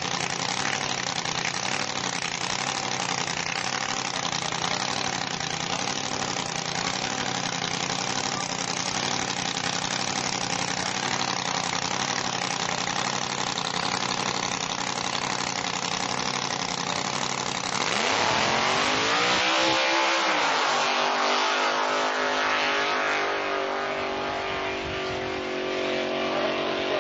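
Drag racing funny car engine idling at the start line with a wavering, uneven note. About eighteen seconds in it launches: the pitch shoots up as it revs hard and pulls away, then drops as the car goes off down the strip.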